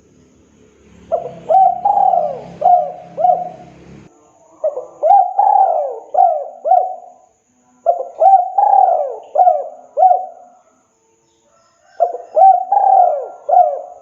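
Spotted dove cooing: four phrases of several quick coos each, every note rising and then falling, with a pause of about a second between phrases.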